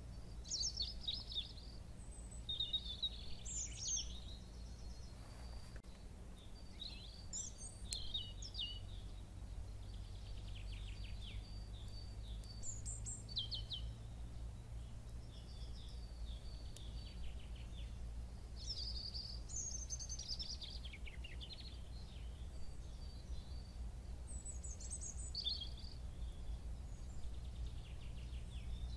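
Songbirds singing outdoors, a string of varied chirps and quick trills following one another, over a steady low rumble of background noise.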